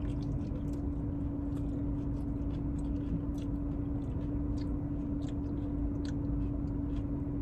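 Chewing a mouthful of leafy salad with almond slices: scattered small crunches, over a steady low hum.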